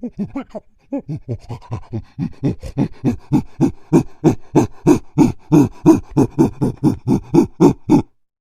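Monkey calling in a rapid series of panting calls, about three to four a second, growing louder and then stopping abruptly.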